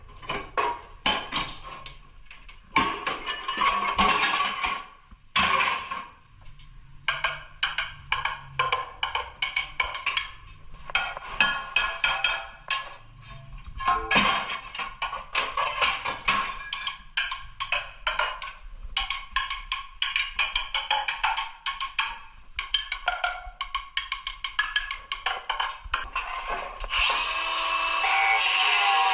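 Irregular sharp knocks of hammer blows breaking out and chipping tile, in quick flurries with short pauses, over background music. Near the end a steady power tool with a high whine starts up.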